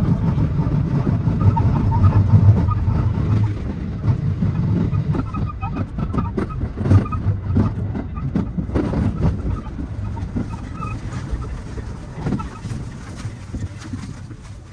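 JR West 223 series 2000 electric train heard from the driver's cab, running with a low rumble and a run of sharp wheel clacks over the station pointwork, growing quieter as it slows into the platform.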